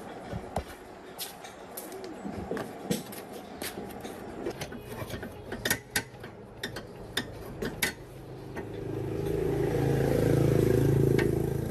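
Metal clinks and knocks, irregular and sharp, then from about eight seconds in an engine builds up and runs steadily, louder than the clinks.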